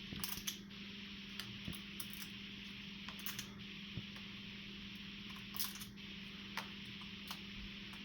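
African grey parrot's beak cracking and nibbling a nut shell: irregular sharp cracks and clicks, bunched near the start and again about two-thirds through.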